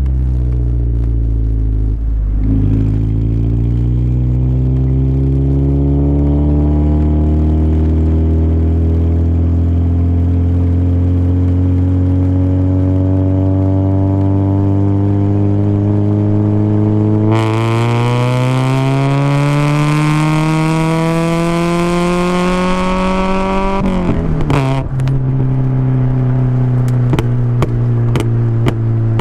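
Toyota Corolla's 1.8 L 7A-FE four-cylinder, fitted with headers and an aftermarket exhaust, pulling through the gears: the exhaust note dips once near the start, then climbs slowly and steadily in pitch, getting louder and raspier about two-thirds through. Near the end the revs drop sharply, as from a shift or lifting off, and the engine settles to a steady drone.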